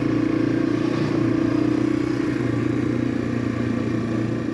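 Small single-cylinder four-stroke dual-sport motorcycle engine running at a steady cruising speed, with a constant hum and rushing noise over it.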